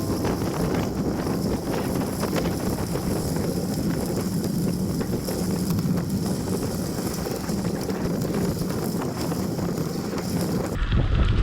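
Wind buffeting the microphone while riding a bicycle on a trail, with a steady low rush and scattered small clicks and rattles. Near the end the sound changes abruptly to a heavier low wind rumble.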